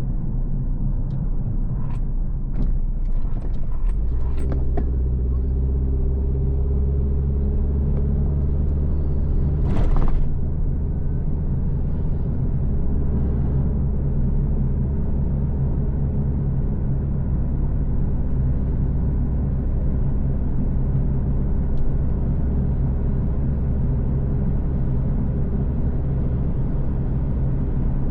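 Car engine running with steady road rumble, heard from a moving car. There are a few light clicks in the first few seconds and a short hiss about ten seconds in.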